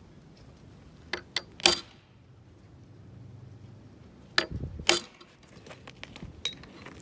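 Sharp metal clicks and clacks of hand tools being handled, in two bursts about three seconds apart, over a faint low hum.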